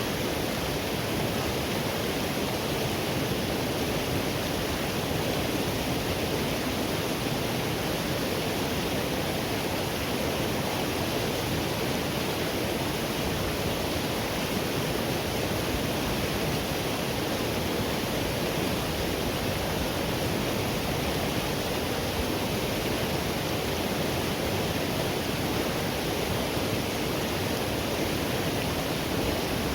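Flowing river water: a steady, even rush with no breaks or changes.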